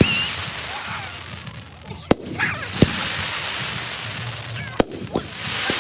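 Fireworks going off: four sharp bangs spread unevenly across a few seconds, over a steady crackling hiss that swells near the end.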